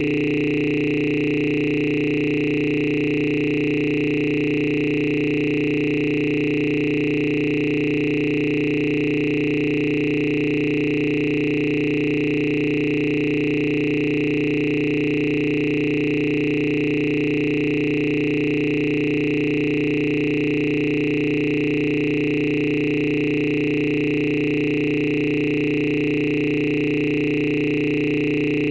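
A loud, steady electronic drone of several held tones, low and high together, that never changes.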